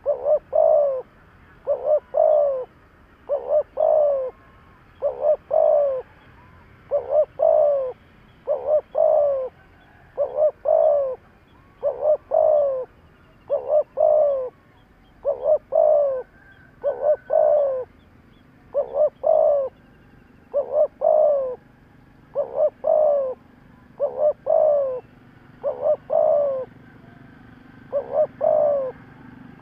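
Spotted dove giving its repeated 'thúc' cooing call, a short phrase of two or three falling coos about every two seconds, over and over.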